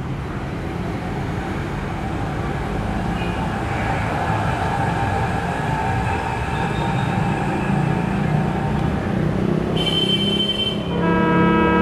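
Trains running past on the rails, a steady rumble that grows slowly louder. Near the end a locomotive horn sounds, a brief high note followed by a lower one.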